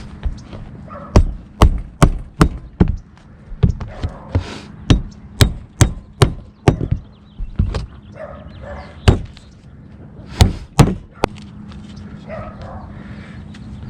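Sharp knocks and strikes from tile roof repair work, about two a second for several seconds, then a few more about ten seconds in.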